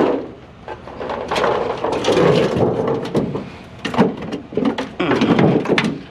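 A scrap aluminum sheet being bent and folded over on itself by hand: rough scraping and flexing metal with several sharp knocks.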